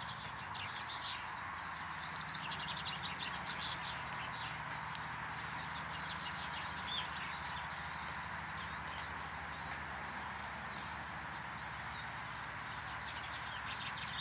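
Small birds chirping and twittering in quick, overlapping calls, busiest in the first few seconds and again near the end, over a steady low hum.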